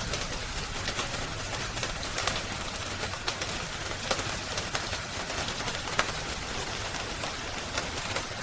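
Steady hiss of rain, with sharp crackles and pops from a wood fire scattered through it.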